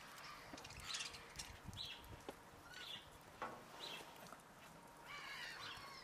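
Faint bird calls: short high chirps about once a second, with a longer, more complex call near the end.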